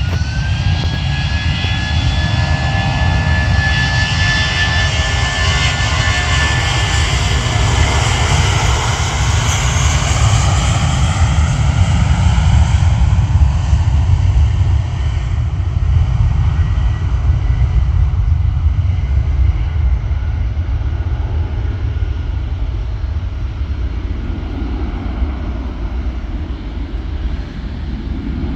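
Airbus A320 jet engines at takeoff power on departure: a steady deep rumble under a high whine that rises in pitch in the first second and then holds. It is loudest about halfway through and fades toward the end.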